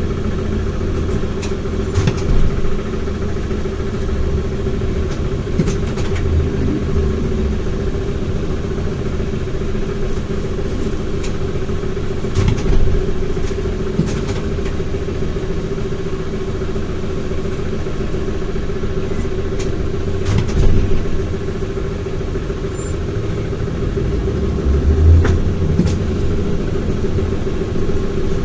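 ZiU-682 trolleybus under way: a steady hum with one constant tone and a low road rumble, broken by several short knocks and rattles as the body goes over bumps.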